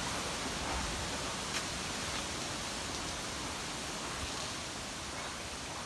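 Steady rush of strong wind, the strengthening breeze ahead of an approaching hurricane.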